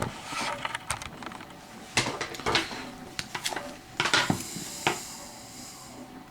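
A CD album package being handled and opened by hand: scattered sharp clicks and taps of the packaging, with a faint rustle near the end.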